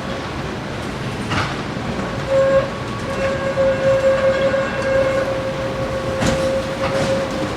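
Tram running, with a steady high tone held at one pitch for about five seconds over the rumble, and a few sharp knocks from the track.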